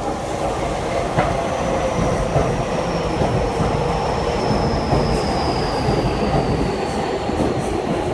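Electric commuter train running alongside the platform: steady wheel-on-rail rumble with a thin, high whine that slowly falls in pitch.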